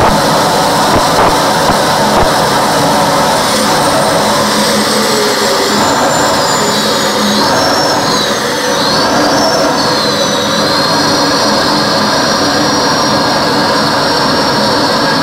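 Homemade jet engine running steadily, a loud rushing roar with a thin high whistle that slowly falls in pitch and wavers up and down for a few seconds in the middle.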